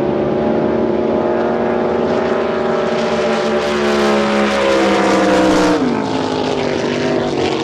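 Racing drag boat engine running hard, a loud steady drone whose pitch sinks slowly, then drops sharply about six seconds in.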